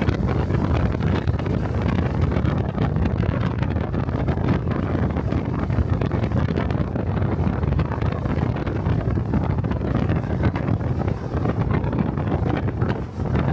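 Wind buffeting the microphone during a motorcycle ride, over the steady running of a Honda 125 cc Cub's single-cylinder engine.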